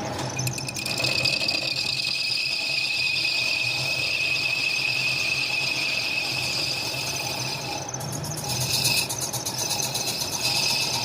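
Machine tool cutting metal, with a steady high-pitched squeal from the cut over a low motor hum; the squeal shifts in pitch about eight seconds in.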